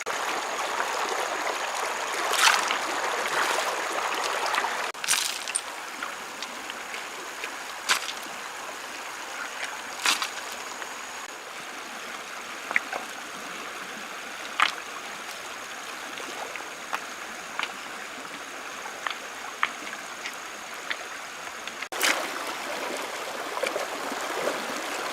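A small stream flowing and trickling steadily, louder in the first few seconds, with scattered sharp clicks or knocks and a faint steady high tone above it.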